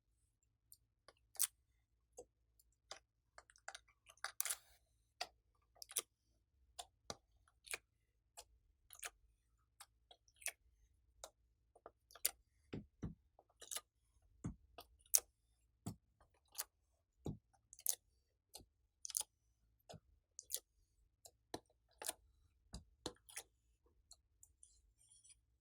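Glossy slime being worked by hand, giving a run of irregular sharp sticky clicks and pops, about one or two a second.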